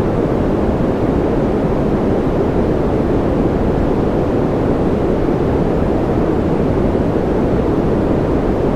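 Continuous white-noise ambience: a steady, unchanging noise with a deep, rumbly tone rather than a hiss, with no separate drops or clicks.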